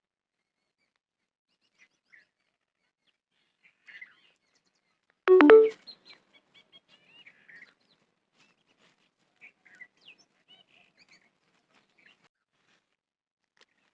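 Small birds chirping faintly and sporadically outdoors. About five seconds in comes one loud, short pitched call, much louder than the chirps.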